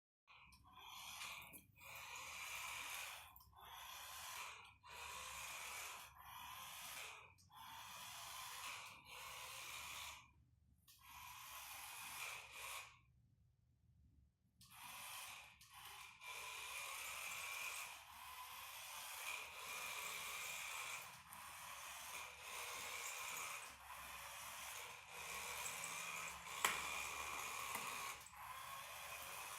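Toy remote-control car's small electric motor and gears whirring in stop-start bursts of a second or two, with a longer pause around the middle and a sharp click near the end.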